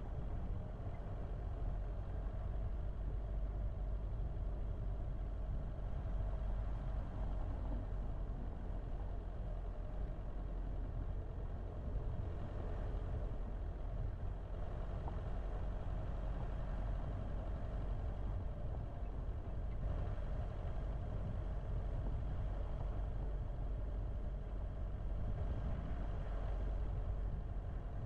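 Car engine running steadily: a low, even rumble with no change in speed.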